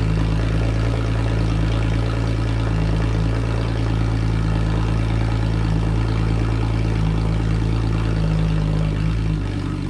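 Porsche 987.2 Cayman S's 3.4-litre flat-six idling steadily just after start-up through a straight-pipe exhaust with no crossover pipe. Near the end the idle drops and the engine gets a little quieter as it settles down.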